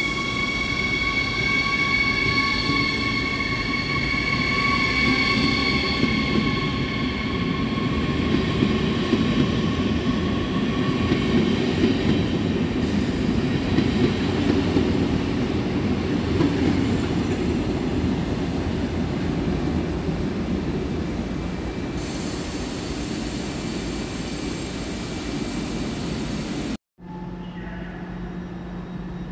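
Electric regional multiple-unit train pulling slowly into the platform. A high whine of several tones fades out by about ten seconds in, under the low rumble of the wheels rolling past. Near the end the sound drops out for an instant and a steady low hum follows.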